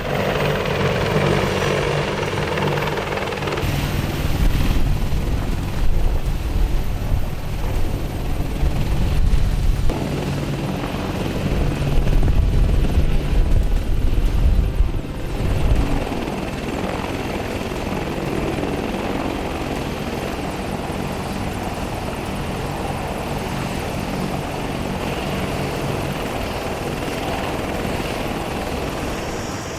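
Helicopter running: a steady low thrum of the rotor blades with turbine noise over it. Louder and more uneven for the first half, then steadier and a little quieter from about sixteen seconds in.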